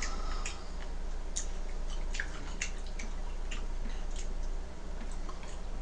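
A person eating gomtang (beef bone soup): irregular wet mouth clicks and smacks of chewing, about a dozen, over a steady low hum.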